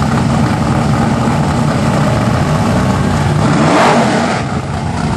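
A Datsun drag car's turbocharged 2.3-litre engine idling with a steady low beat. It is briefly revved about three and a half seconds in, then settles back.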